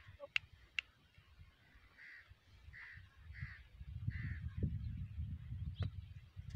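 A bird calling over and over, short harsh calls about one every two-thirds of a second. A low rumble rises under them in the second half.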